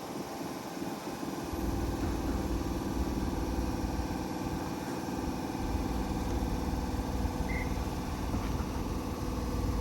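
Sydney Trains Tangara electric train giving off a steady low electrical and mechanical hum.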